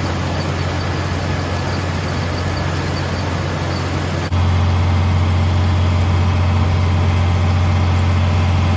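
Vintage John Deere tractor engine running at a steady speed while pulling a two-row corn picker through the field. It gets suddenly louder about four seconds in.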